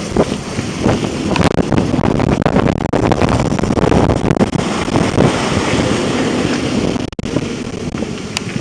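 Strong wind buffeting the microphone over rushing, splashing seawater on a sailboat under way in heavy wind. The sound drops out for an instant about seven seconds in.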